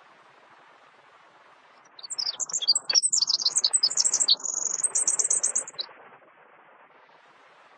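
A songbird singing a quick run of high chirps and twitters that starts about two seconds in and lasts about four seconds, with a brief steady whistled note in the middle of the phrase. A faint steady background hiss is heard before and after the song.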